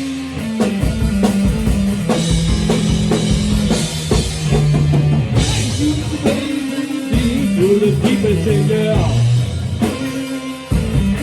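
Rock music played by a band: a drum kit and guitar over held low notes that step from pitch to pitch.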